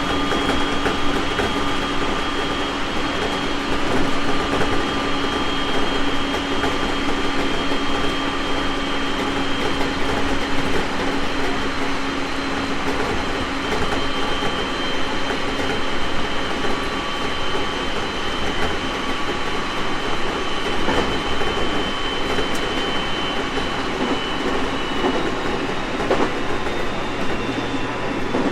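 Onboard running noise of a JR East 701 series 1000-subseries electric train at speed: a steady rumble of wheels on rail, with a high whine that slides slightly lower in pitch, and a few rail-joint clicks near the end.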